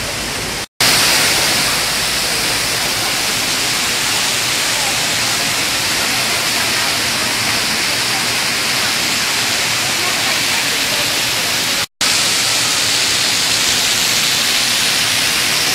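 Water curtain fountain: falling sheets of water splashing into the basin below, a loud, steady rushing hiss. It drops out for an instant twice, just under a second in and about twelve seconds in.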